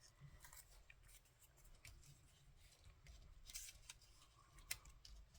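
Near silence with faint rustles and a few light clicks of paper card pieces being handled and placed on a card.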